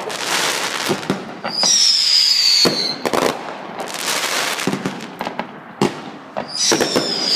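Aerial fireworks going off: repeated sharp bangs with crackling in between. Twice a whistle falls in pitch for about a second, each followed by more bangs.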